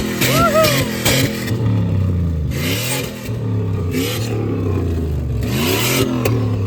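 Turbocharged Dodge pickup engine revving up and falling back several times, with a few short whistling chirps.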